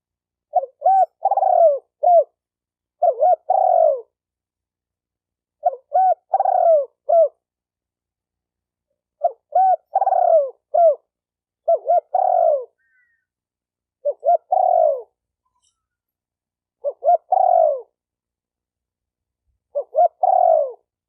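Spotted dove cooing: about eight repeated phrases, each of three or four short notes ending in a longer, falling coo, spaced two to three seconds apart.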